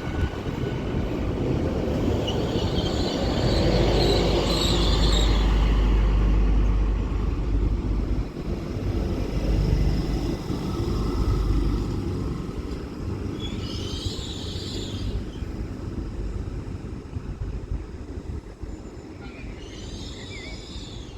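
Great Western Railway Class 800 IET pulling into the platform: a loud low rumble that eases off after about twelve seconds, with brief high squeals about four, fourteen and twenty seconds in.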